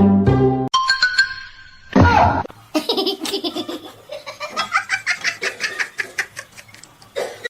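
A person laughing in a long run of quick, high-pitched laughs. It follows a short burst of music that cuts off near the start.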